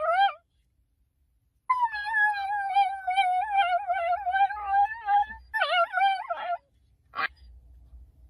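A pet's long, wavering, high-pitched vocal call: a short call rising at its end, then one long drawn-out call of about three and a half seconds and a shorter one after it, then a single sharp click near the end.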